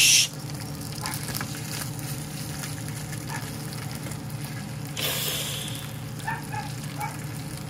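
Chicken pieces sizzling as they fry in a pot on the stove, with a short, louder burst of hiss right at the start and another about five seconds in.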